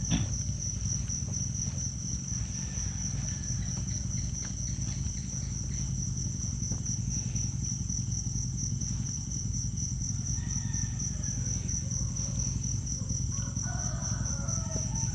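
Crickets trilling in a steady pre-dawn chorus, a continuous high pulsing chirr, over a low steady rumble.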